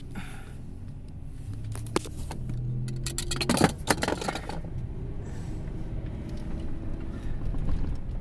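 Vehicle road noise with a run of sharp metallic scrapes and clanks from a towed car's back end dragging on the pavement. The loudest scrape comes about three and a half seconds in.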